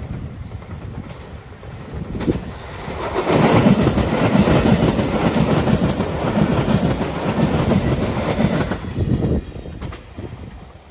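A JR Shikoku Shiokaze limited express passing at speed, its wheels clattering over the rail joints. The noise builds about three seconds in, holds loud for several seconds, then drops away near the end.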